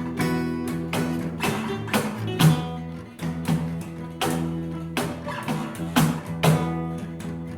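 Instrumental band music led by guitar, with chords struck about twice a second and left to ring over low bass notes.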